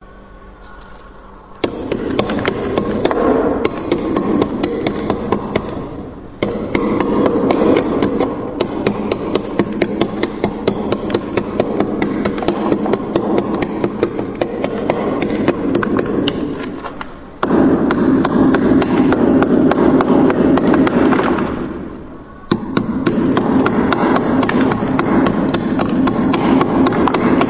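Frost being scraped off the inside walls of a freezer in fast, rapid strokes. It comes in four long runs broken by brief pauses.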